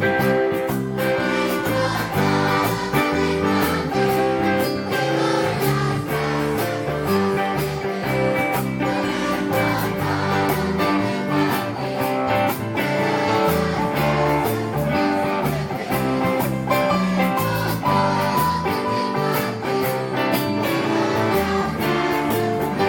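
Music with strummed guitars playing at a steady beat.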